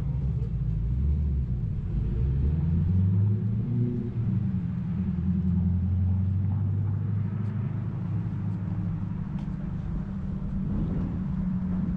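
A motor vehicle's engine running close by. Its low hum climbs in pitch over the first few seconds, then holds steady.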